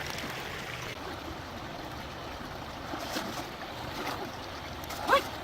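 Steady rush of flowing stream water with a few faint splashes. Near the end comes a brief high-pitched call that rises and falls.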